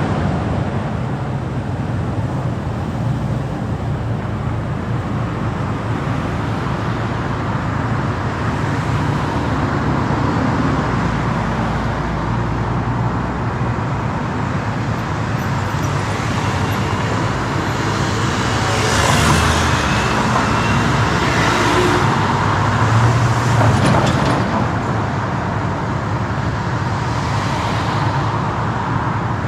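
Car driving through city traffic: a steady hum of engine and road noise, which swells for a few seconds past the middle as other traffic grows louder.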